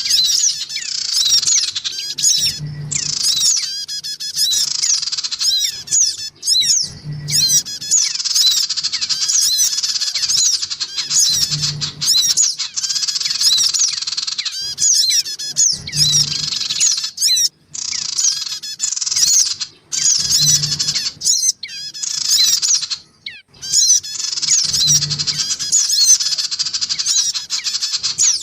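Sogon sunbirds, male and female, calling busily in a rapid stream of high, thin chirps and trills, the excited chatter used as a lure to draw in small wild birds. A short low thump recurs about every four and a half seconds beneath the calls.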